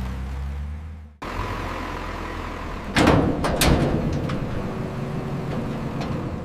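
A vehicle engine's low, steady rumble that cuts off suddenly about a second in. A rougher low rumble follows, with a few sharp knocks about halfway through.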